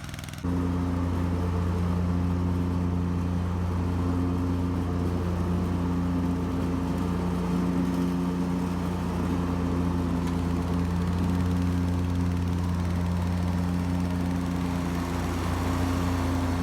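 Kubota compact tractor's diesel engine running at a steady speed while pulling a chisel plow through a food plot. The drone cuts in suddenly about half a second in.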